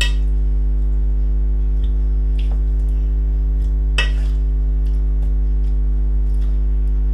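Boiled pumpkin being mashed in a bowl, with a few sharp knocks of the utensil against the bowl, the clearest about two and a half and four seconds in. A steady low hum runs underneath throughout.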